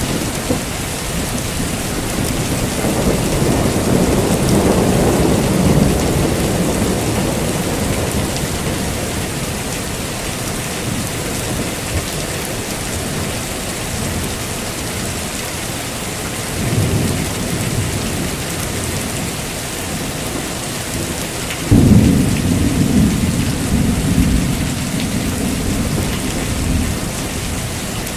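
Heavy rain falling steadily, with rolls of thunder: a rumble swelling a few seconds in, a shorter one past the middle, and a sudden loud crack about two-thirds through that rumbles on for several seconds.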